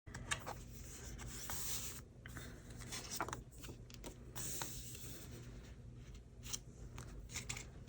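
Paper being handled: soft rustling and sliding with a few scattered light clicks and taps, the loudest click just after the start.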